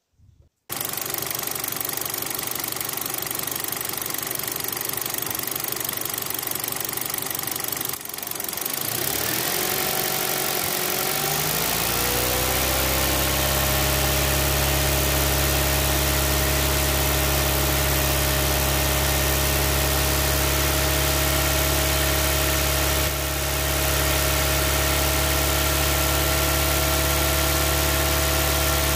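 Car engine running at idle, then revving up over about three seconds starting some nine seconds in and held steady at a raised speed of about 2000 rpm.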